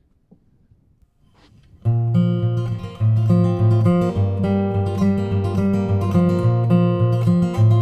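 Acoustic guitar strummed with bare fingers rather than a pick, starting a song's chord intro about two seconds in, after a few faint clicks.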